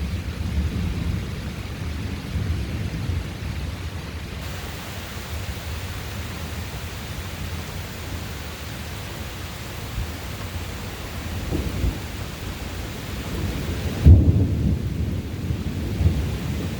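Thunder rumbling steadily under the hiss of rain, with a sharper, louder clap of thunder near the end that rolls on afterwards.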